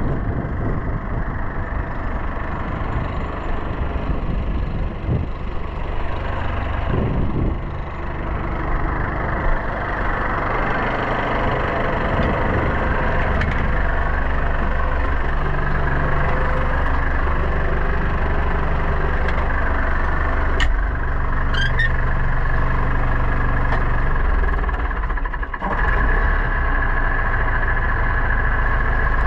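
Pronar 1025A tractor's diesel engine running steadily while ploughing, its note shifting a few times, with a brief dip in level about three quarters of the way through before it picks up again.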